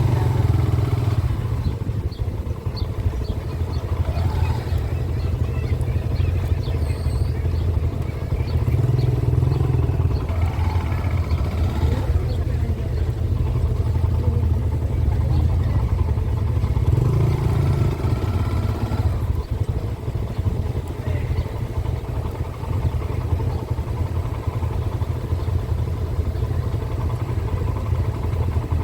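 Small-displacement motorcycle engine running steadily while riding, its note swelling now and then.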